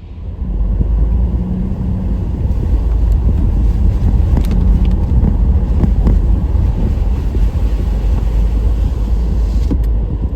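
Car driving along a road: a steady low engine and tyre rumble that starts suddenly.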